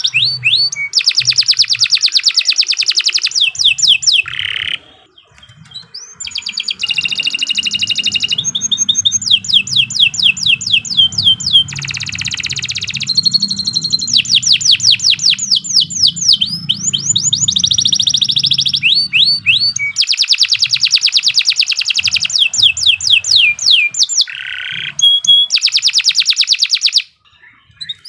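Domestic canary singing a long, continuous song of fast trills and rolling runs of rapidly repeated notes, broken by two brief pauses, one about five seconds in and one near the end.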